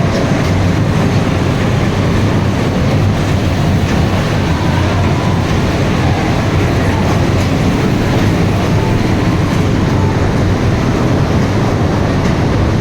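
A train running along the track, a loud steady rumble and rattle of wheels on rails.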